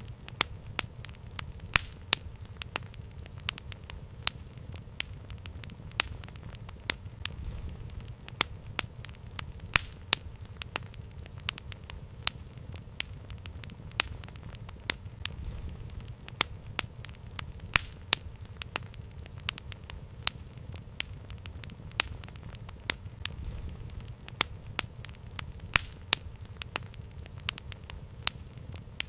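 Campfire crackling: irregular sharp pops and snaps over a low, steady rumble from the flames.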